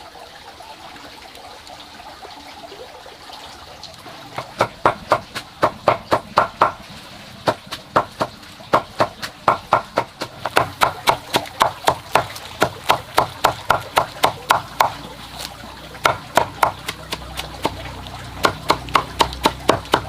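Knife chopping cabbage on a wooden board for pig feed, in runs of quick sharp strikes about four a second, starting a few seconds in.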